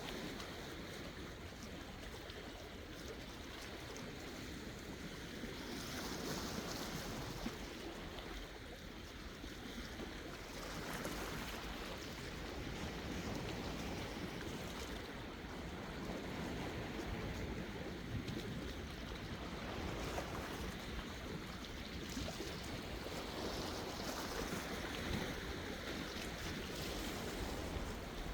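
Sea waves washing ashore, the surf swelling and easing every few seconds.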